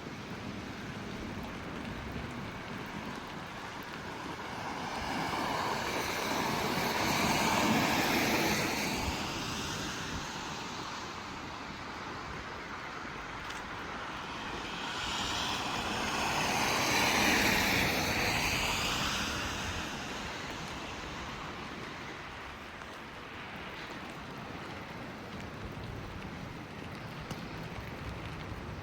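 Two vehicles passing by on a wet street, one after the other about nine seconds apart: each is a swell of tyre hiss and spray that rises, peaks and fades over several seconds, over a steady background hiss of rain.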